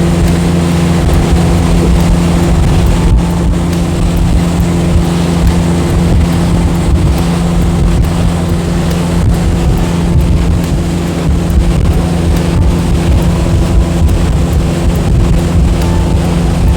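Motorboat engine running at a steady pitch while under way, with wind buffeting the microphone.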